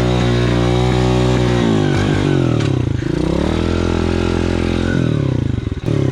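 Two-stroke dirt bike engine held at high revs, falling off about two seconds in, climbing back up and holding, then dropping off again near the end.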